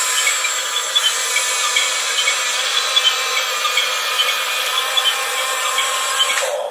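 Huina RC bulldozer's small electric drive motors and gearbox running under load, a steady whirring with a stream of small ticks from the gears and plastic tracks as it pushes through dirt. It stops shortly before the end.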